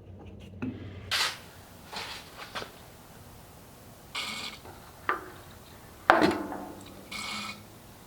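Hand tools clinking and knocking against metal at a garden tractor engine, with scattered sharp knocks, the loudest about six seconds in, and two short rasping sounds near the middle and near the end. This is the work of putting a squirt of oil down the spark plug hole of an engine that has sat for years, to help it until it fires up.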